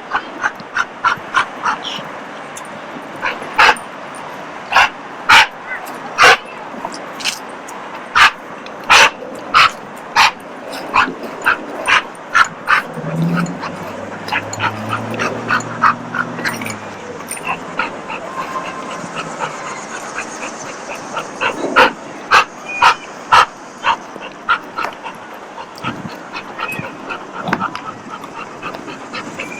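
A dog barking over and over in short, sharp, irregular barks, with a lull partway through.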